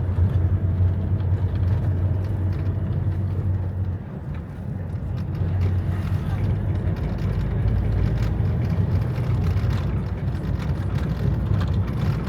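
Motor vehicle engine rumbling steadily at a low pitch, briefly dropping in loudness about four seconds in.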